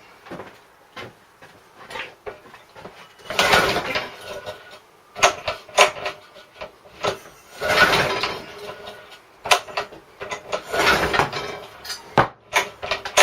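Recoil starter of a 3.5 hp Briggs & Stratton lawn mower engine pulled three times, each pull about a second long, with clicks and knocks between. The engine turns over but does not fire: its fuel tank is empty.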